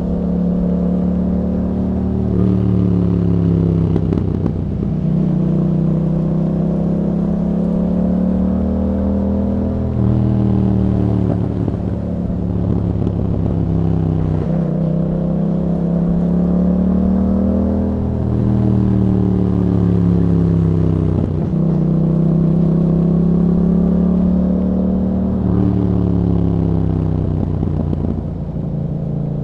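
Yamaha MT-07's 689 cc parallel-twin engine, breathing through an Akrapovič exhaust with a dB killer, with the revs climbing and falling back every few seconds as it rides on throttle and off.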